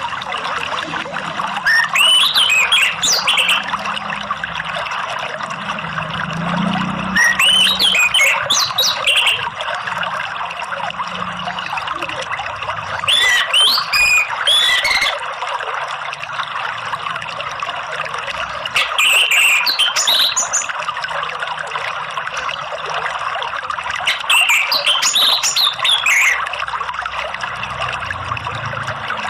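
Orange-headed thrush song: five whistled phrases of about two seconds each, coming every five to six seconds, over a steady rush of flowing water.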